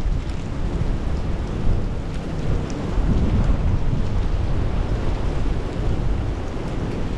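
Strong wind blowing across the microphone: a loud, steady, deep rush of noise that swells and eases a little, with faint light ticks in it.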